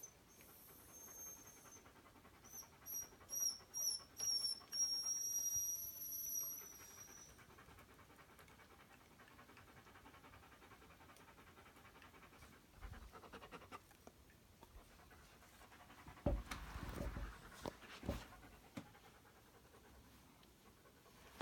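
Toy poodle panting, with a run of short high-pitched whines and then one long whine in the first several seconds. Scuffling noises come in the second half.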